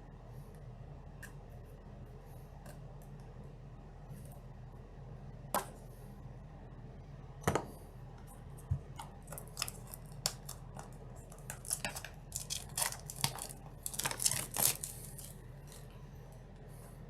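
A trading-card deck box being opened by hand. A few sharp clicks come first, then a run of crackling, cutting and tearing sounds through the second half, as of wrapping being cut and torn off.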